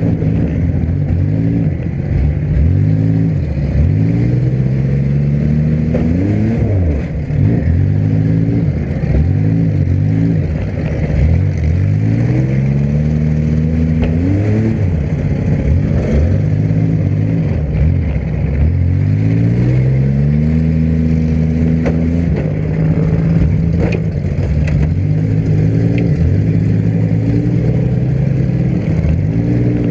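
Demolition derby car's engine revving up and dropping back again and again as it is driven hard, its pitch climbing every few seconds, with a few knocks of metal on metal.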